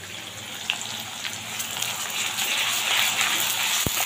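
Sliced onions frying in hot oil in a kadai, a steady sizzle that grows louder about halfway through as they are stirred with a spatula. A sharp knock near the end.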